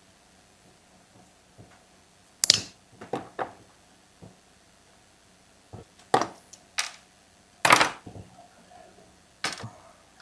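Scattered sharp clicks and small metal clinks of hand tools and parts being handled while the ground-wire screws are taken off a chainsaw's ignition coil, about seven knocks in all, the loudest about a quarter and three quarters of the way through.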